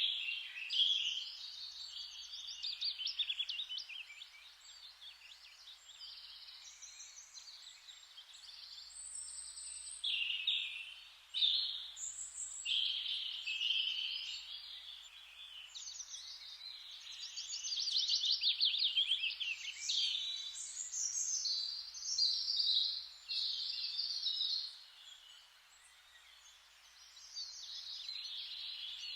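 Forest ambience: several songbirds singing and chirping in rapid, overlapping trills over a soft, steady hiss.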